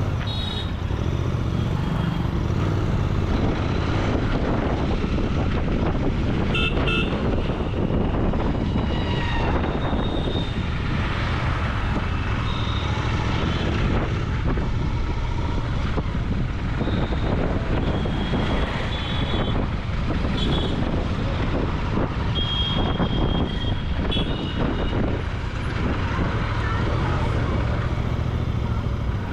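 Royal Enfield Continental GT 650's parallel-twin engine and exhaust running steadily while riding through traffic, with brief vehicle horn toots several times: near the start, about seven seconds in, and a cluster in the middle.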